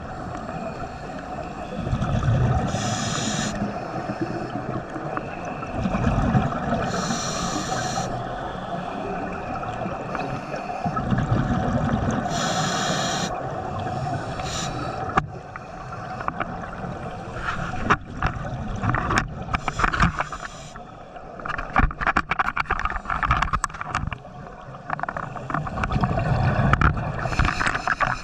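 Scuba diver breathing through a regulator underwater: a hissing inhale and a rush of exhaled bubbles about every four to five seconds, with crackling and clicking bubble noise in the second half.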